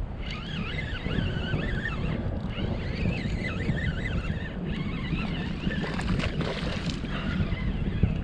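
Wind rumbling on the microphone and water noise around a kayak, with birds calling over it again and again in wavering high-pitched calls. A few knocks come near the end.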